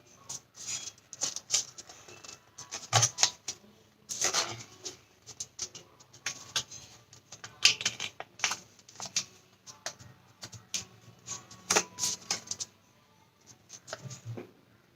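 Origami paper being handled and folded: irregular crinkling and rustling of a paper sheet, with short sharper crackles as creases are pressed, the loudest of them about 3, 4.5, 8 and 12 seconds in.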